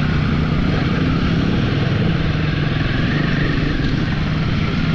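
Royal Enfield motorcycle engine running steadily at a constant pitch.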